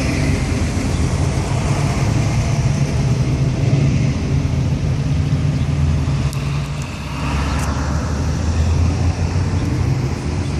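Classic cars rolling past slowly with a steady low engine rumble. About seven seconds in, the note gives way to a deeper one as the next car comes by.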